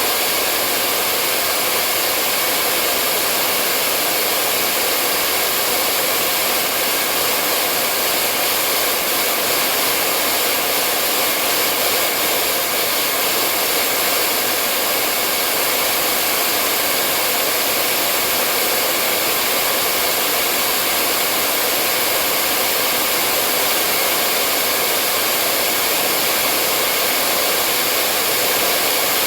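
Hair dryer blowing continuously, a steady, unchanging whooshing hiss with a faint motor hum.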